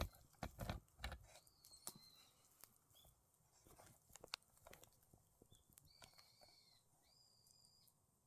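Faint wild birdsong: three short, flat whistled notes, the last two close together near the end. Sharp clicks and knocks come in a cluster at the start and sparsely after.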